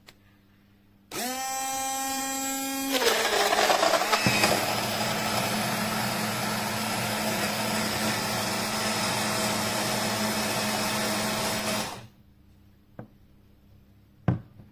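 COKUNST portable mini blender switching on with a steady motor whine, then after about two seconds turning to a louder churning as the blades work through the contents. It runs evenly and cuts off a few seconds before the end.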